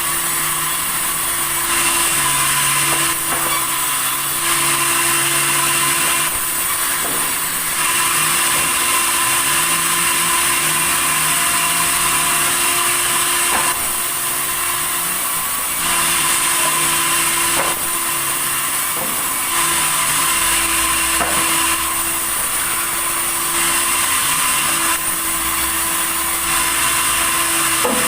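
Sawmill saw running and cutting tasak timber, a continuous machine noise with a steady hum. It steps louder and softer every couple of seconds.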